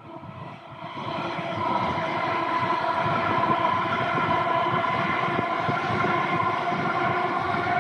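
A train passing close by, growing louder about a second in and then running steadily. A rumble sits under a steady whine made of several held tones.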